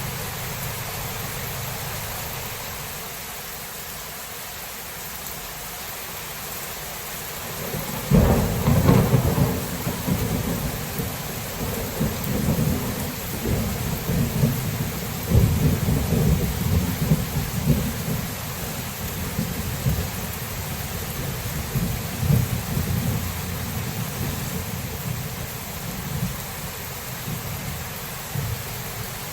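Thunderstorm: steady rain hissing, then about eight seconds in a sudden thunderclap that rolls on as a rumble, swelling and fading over the following fifteen seconds or so.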